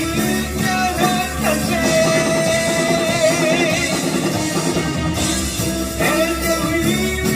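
Rock band playing: electric guitar and drum kit under a held melody line that wavers with vibrato in the middle, then moves to new notes about six seconds in.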